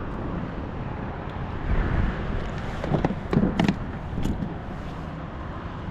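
Wind buffeting the microphone in a steady low rumble, with a cluster of short knocks and clatters a little past the middle.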